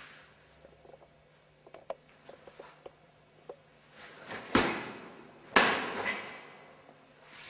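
Two sharp, loud snaps about a second apart, each trailing a short echo, from a karateka's strikes while performing the Tekki Shodan kata. Light clicks and scuffs of movement come before them.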